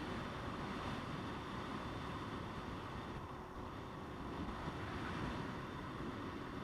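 Motorcycle on the move, its engine running steadily under wind rushing over the microphone.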